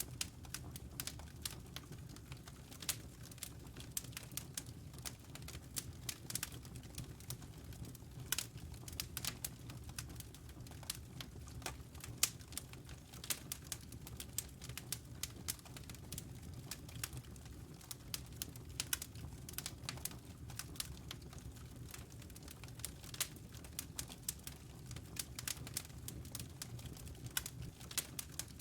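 Wood fire crackling in a fireplace: irregular sharp pops and snaps from the burning logs over a low, steady rumble.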